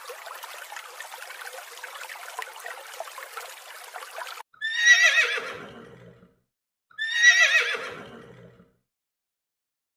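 A horse whinnying twice, the calls about two seconds apart. Each is a quavering neigh that falls in pitch and trails off. Before them, for about four seconds, there is a faint hiss with light crackling.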